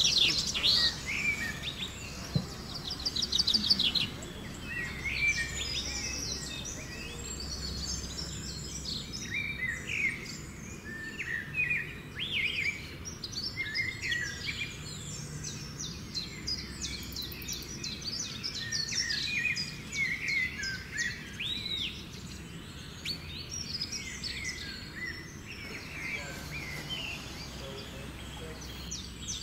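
Many rainforest birds calling at once: a dense chorus of short, high chirps and trills, some sliding up or down in pitch, overlapping throughout.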